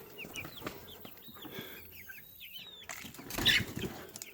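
A brood of baby chicks peeping: many quick, high peeps, each falling in pitch. A little past three seconds in, a brief louder rustling noise rises over them for about half a second.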